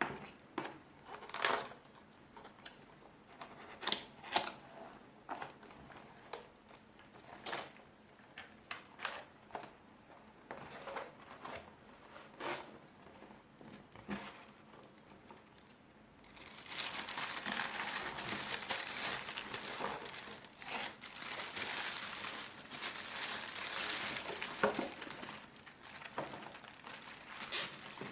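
Packaging of a wireless keyboard being handled during unboxing. At first there are scattered short rustles and light taps, then from about halfway through there is continuous loud crinkling as the wrapping is opened.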